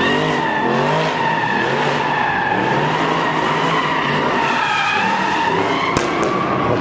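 Car tyres squealing in one long continuous skid, wavering slightly in pitch, with the car's engine revving up and down underneath. A single sharp crack about six seconds in.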